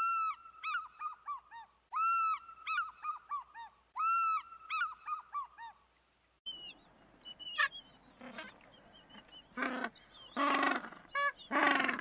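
Bald eagle calling: three runs of high, thin whistled chirps, each a held note breaking into a quick falling series. About halfway through the sound cuts to louder, harsher honking calls from a king penguin colony.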